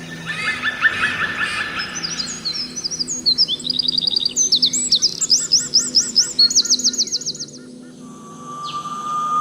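Songbirds calling in succession: quick repeated chirps and fast trills of rising notes, then, near the end, one long, slowly rising whistle.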